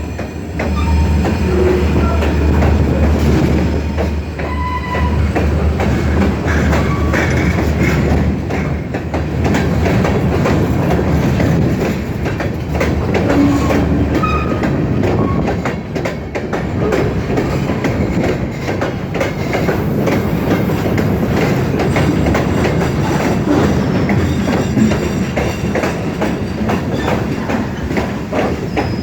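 Great Lakes Central freight cars rolling past, their wheels clicking steadily over the rail joints, with a few short wheel squeals.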